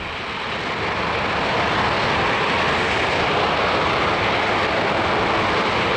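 Aermacchi MB-339 jet trainers' engines running on the runway. It is a dense, even jet rush that swells over the first two seconds and then holds steady.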